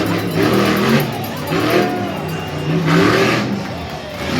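Tuff Truck off-road race truck's engine revving hard, its pitch rising and falling several times as it is pushed over the dirt course.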